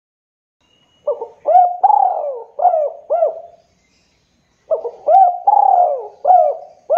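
Spotted dove (tekukur) cooing: two phrases of about five coos each, the first beginning about a second in and the second starting about halfway through.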